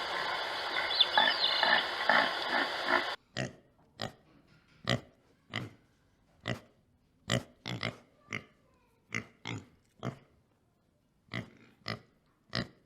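An animal making about a dozen short calls, spaced irregularly, after a dense pulsing noise that cuts off suddenly about three seconds in.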